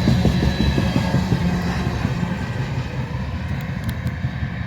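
Freight train of empty tank cars rolling past: a steady low rumble of wheels on rail that slowly fades, with a few faint clicks near the end.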